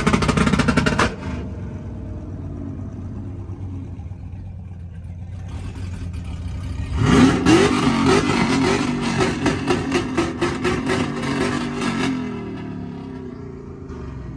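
A vehicle engine revving: a brief rev at the start, then about halfway through a longer run of rising, pulsing revs with a rattling crackle that dies away a couple of seconds before the end.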